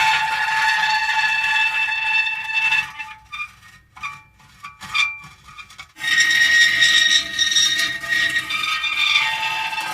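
Metal creaking and squealing under strain: a long, high creak for about three seconds, a run of short squeaks, then another long creak from about six seconds in.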